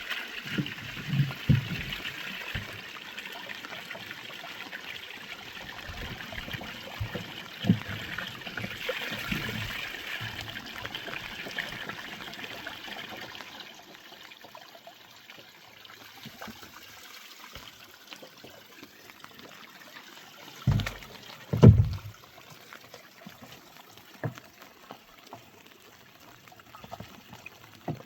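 Running water trickling and pouring, stronger in the first half and dropping off about halfway through, with a few low thumps, the loudest two close together about three-quarters of the way in.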